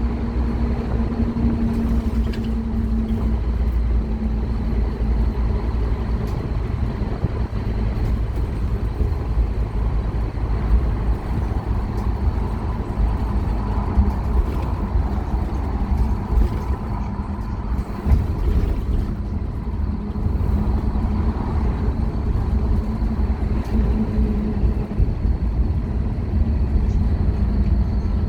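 Scania K230UB Omnilink bus under way, its five-cylinder diesel engine running with a steady low drone and road rumble. The engine note wavers in pitch, and there are a few sharp rattles or knocks.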